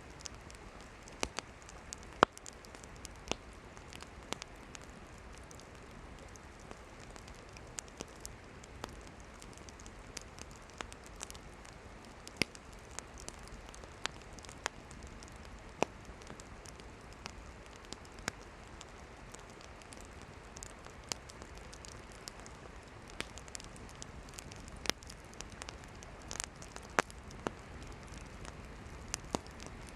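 Campfire burning wood: a steady low hiss of flames with irregular sharp crackles and pops of the firewood, the loudest pop about two seconds in.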